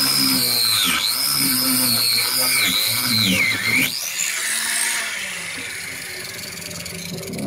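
Power grinder running at a high whine, its pitch dipping again and again as it is pressed into the fiberglass and rotten wood it is grinding out, then recovering. Around four seconds in it drops away and winds down.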